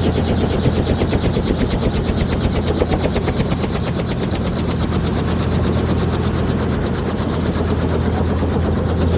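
Helicopter running, its rotor blades making a rapid, even chop over a steady low drone.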